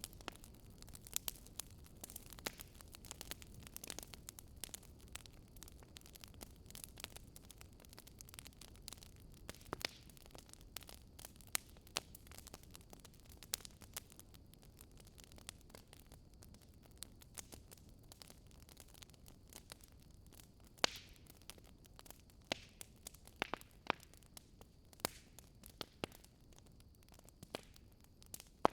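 Wood fire in a fireplace crackling: irregular pops and snaps, a few sharper ones near the end, over a steady low rumble.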